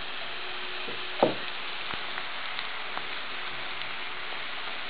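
Small potatoes and onions frying in a pot, a steady sizzle, with one short louder sound about a second in.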